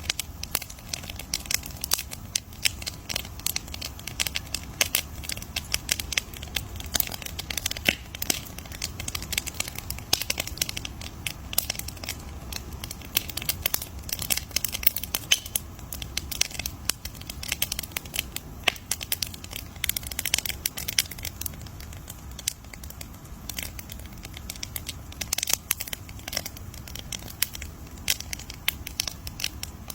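Wood fire crackling steadily: dense, irregular sharp pops and snaps over a low, steady rumble of burning.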